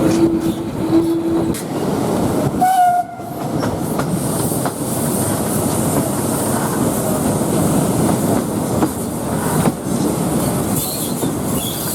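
Heritage passenger train hauled by a Ty42 steam locomotive, running on the rails with a steady rumble and wheel clatter. A held tone stops about a second and a half in, and a short higher tone sounds about three seconds in.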